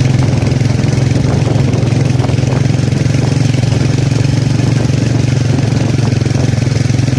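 Motorcycle engine running steadily at an even speed, with a constant low, fast-pulsing drone.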